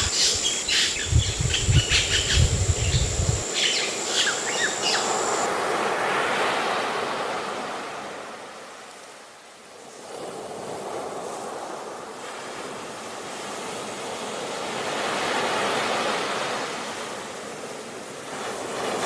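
Birds chirping over a low rumble for the first few seconds, then ocean surf: waves washing in and drawing back in slow surges, swelling around six seconds and again around fifteen seconds with a quieter lull between.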